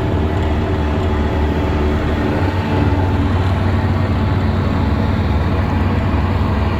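Twin two-stroke outboard motors of a jet jon boat running steadily with the boat under way, a constant loud drone.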